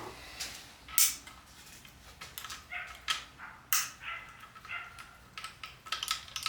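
Light metallic clinks and taps as connecting-rod bearing shells and tools are handled, each click ringing briefly, with a few faint high-pitched squeaks between them.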